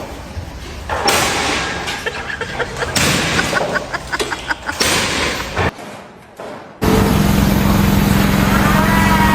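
Construction-site clatter with scattered knocks and bangs, then after an abrupt cut an engine running steadily, its pitch beginning to rise near the end.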